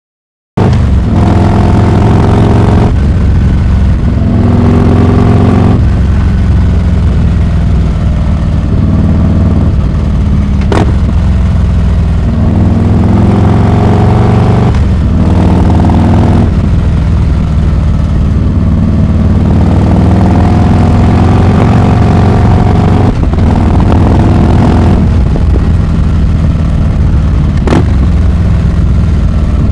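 Harley-Davidson Heritage Classic 114's Milwaukee-Eight V-twin running loud through a Rinehart exhaust. It starts abruptly about half a second in, and the engine note climbs in pitch and drops back again and again as the bike accelerates. Two short sharp clicks come partway through.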